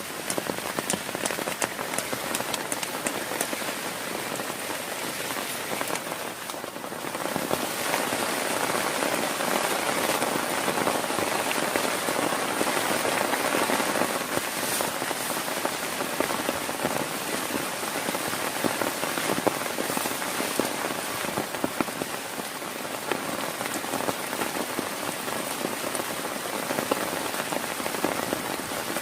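Heavy rain falling steadily, a dense hiss with many sharp individual drop hits ticking through it. It eases briefly about six seconds in, then comes down harder again.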